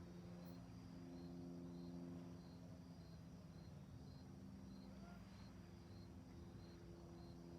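Crickets chirping faintly at night, an even, high-pitched chirp repeating a little under twice a second, over a low steady hum.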